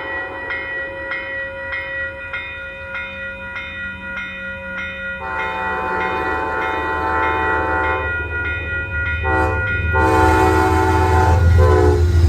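A grade-crossing bell rings steadily, a little under twice a second. About five seconds in, an approaching train sounds its multi-tone horn: one long blast, then a short one, a longer one and a last short one, while the rumble of the train grows louder.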